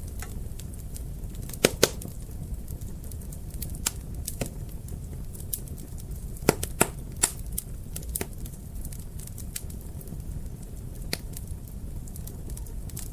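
Wood fire crackling in a fireplace: sharp, irregular pops and snaps over a low steady rumble of the flames, with a few louder pops a little under two seconds in and again around six to seven seconds.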